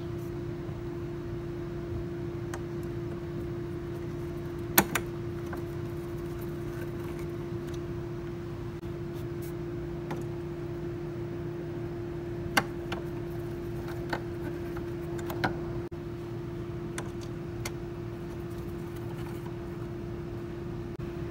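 Steady mechanical hum with one held tone, broken by a few sharp clicks or knocks. The loudest comes about five seconds in and three more fall near the two-thirds mark.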